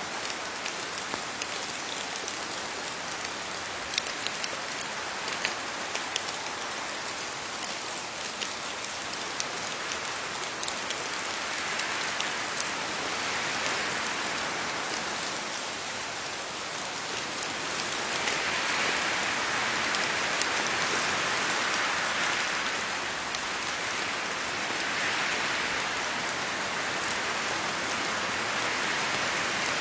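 Steady rain falling on leaves, a dense hiss with sharp individual drips in the first half; the downpour swells heavier in waves during the second half.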